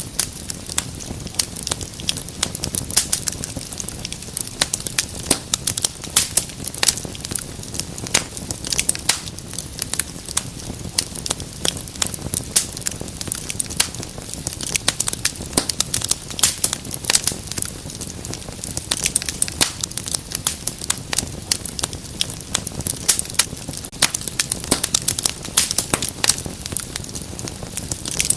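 Wood fire in a fireplace crackling steadily, with many sharp pops and snaps over a low rumble of the flames.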